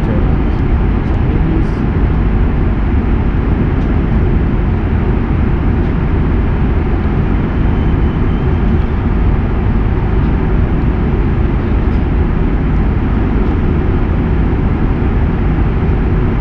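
Steady rushing cabin noise of an Airbus A330-300 in flight: engine and airflow noise heavy in the low end, even and unbroken throughout.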